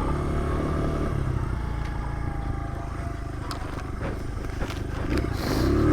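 Honda CRF100 pit bike's small single-cylinder four-stroke engine running at low speed, easing off after about a second and picking up again with a brief rise in revs near the end.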